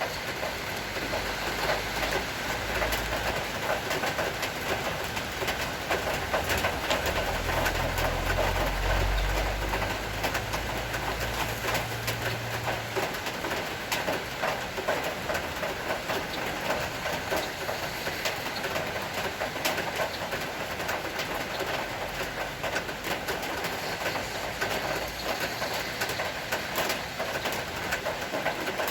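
Rain falling steadily with many sharp drips ticking on hard surfaces. A low rumble swells in the first half and dies away about 13 seconds in.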